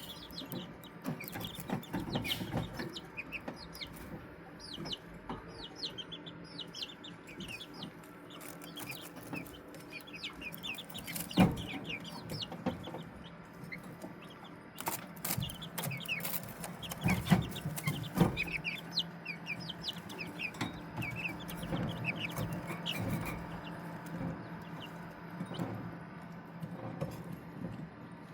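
A pen of young chicks peeping and cheeping without pause, with soft clucking underneath. A low steady hum runs behind them, and a few sharp knocks come in the middle stretch.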